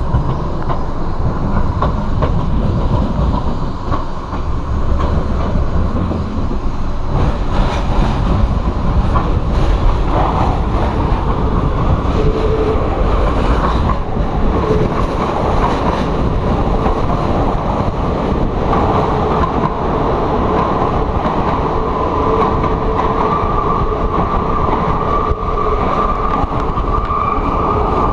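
Euskotren UT200 electric train running at speed, recorded through an open window: steady wheel-on-rail rumble with wind on the microphone as the train runs into a tunnel. A steady high whine grows stronger in the second half.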